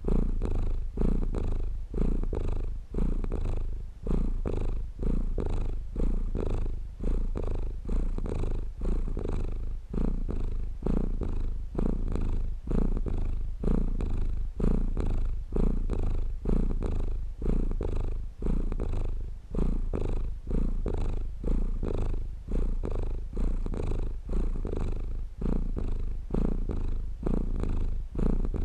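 Domestic cat purring steadily at close range. The low purr swells and dips in an even rhythm with the cat's breaths.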